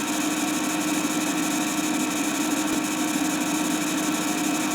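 Steady mechanical hum with an even hiss, unchanging throughout, the running noise of the old film soundtrack between narration lines.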